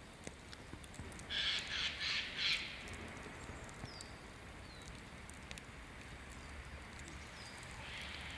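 A bird gives three harsh calls in quick succession about a second in. Later come a few short, high, falling chirps from small birds over a faint outdoor background.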